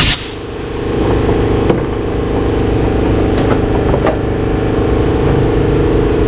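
Workshop air compressor motor running with a steady hum. It refills after the blow gun has been used to clear water from a flooded spark-plug well. A few faint short puffs or clicks come over it.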